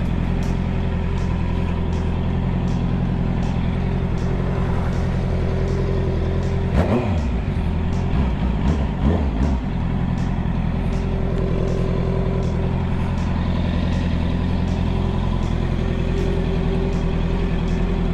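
Honda CB650R's inline-four engine running steadily at highway cruising speed. About seven seconds in, the engine note briefly dips and climbs again, then settles back to a steady note.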